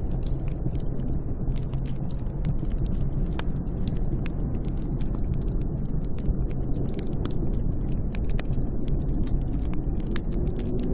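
Snowstorm wind as a steady low rumble, with many sharp crackles scattered through it.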